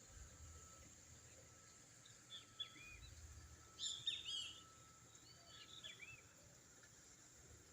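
Faint, quiet countryside ambience: a bird gives several short chirping calls, in clusters about two and a half seconds in, around four seconds in (the loudest) and around six seconds in. Under them runs a steady, high insect buzz.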